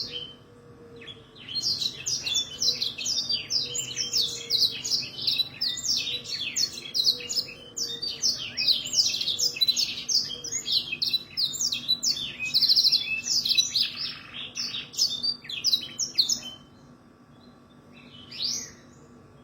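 Canary singing a long, fast run of chirps and rapid trills. It stops about three-quarters of the way through, with one short phrase near the end.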